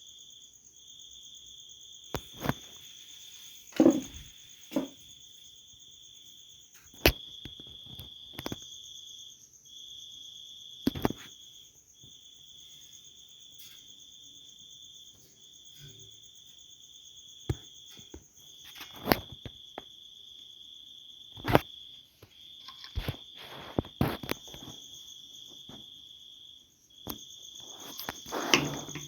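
Insect trilling in long, even high-pitched phrases of a second or two each with brief gaps, carrying on throughout. Over it come scattered sharp clicks and knocks, a few louder thuds, and a busier patch of handling noise near the end.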